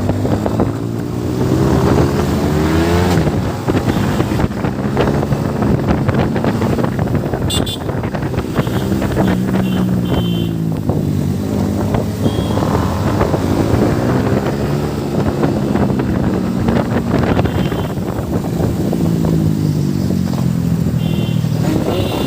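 Motorcycle engine under hard acceleration, its pitch climbing and then dropping at each gear change, several times over, with wind rushing over the microphone.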